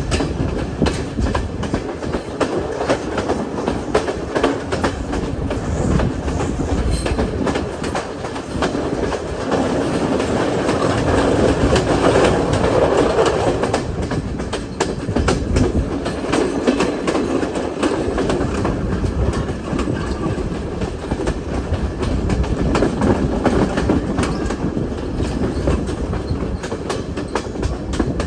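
Passenger train running along the track: a steady rumble with the wheels clicking and clattering over the rail joints.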